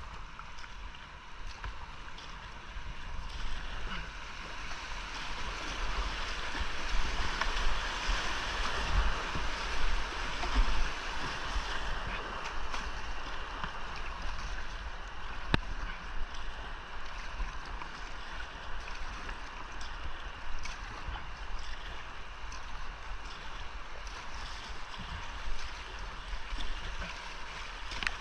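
Whitewater rushing around a kayak running a creek rapid, swelling louder for several seconds about a quarter of the way in, with low buffeting rumble on the camera microphone and a single sharp tick past the middle.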